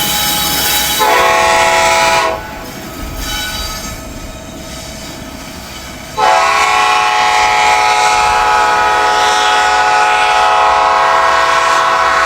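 Locomotive air horn sounding a chord of several notes: a short blast about a second in, then a long blast from about six seconds in that holds on, over the rumble of the train.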